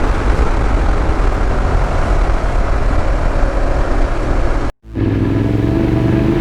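BMW F 750 GS motorcycle on the move: engine and heavy wind noise. The sound cuts out abruptly just under five seconds in and comes back steadier, with a few held tones.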